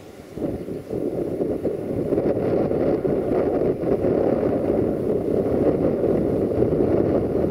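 Container freight train rolling past in the distance, heard as a low rumble that swells about a second in and then holds, mixed with wind buffeting the microphone.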